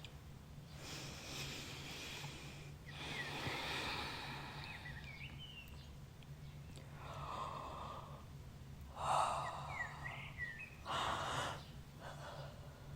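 A person breathing slowly in and out, several long breaths and sighs, with a few faint bird chirps in the background and a steady low hum.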